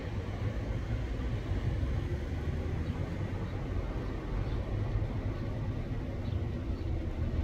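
Steady low rumble of a running vehicle, with no clear events.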